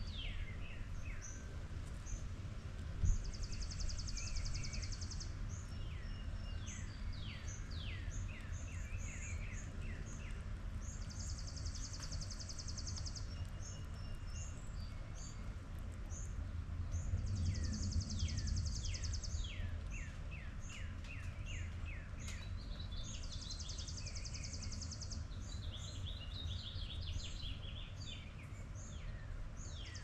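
Several songbirds singing: a rapid, dry high trill repeats every few seconds, with runs of down-slurred whistled notes between. A steady low rumble sits underneath, and there is a single sharp tap about three seconds in.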